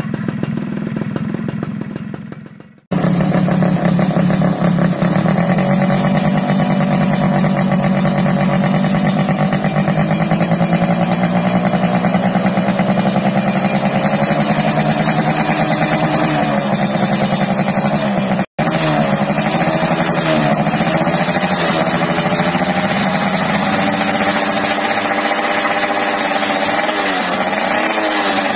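Yamaha F1ZR two-stroke engine running through an aftermarket racing exhaust. It holds a steady fast idle, with the pitch rising and falling a little in the second half as the throttle is blipped. The sound breaks off abruptly about three seconds in and again for an instant past the middle.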